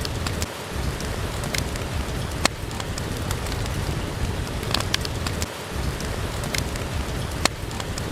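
Steady rain falling, with the crackle of a wood fire in a fireplace: a few sharp pops scattered through, over a low rumble.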